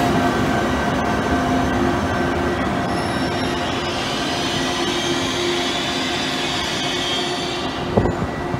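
Italian Intercity train with an E414 electric locomotive running past along the platform track: a steady rumble of wheels on rail with several steady humming tones from the traction equipment and a few faint high wheel squeals, slowly fading as it draws away. A short knock near the end.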